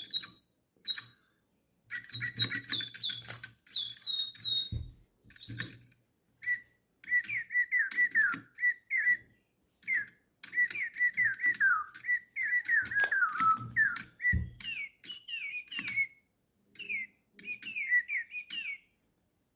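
DigiBirds toy lovebird's electronic bird sounds: a few seconds of quick repeated chirps, then a whistled tune of short gliding notes that dips lower in the middle and rises again near the end.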